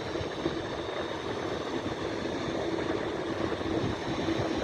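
Boeing 787-8 Dreamliner's twin turbofan engines running at taxi power: a steady jet noise with a low droning tone.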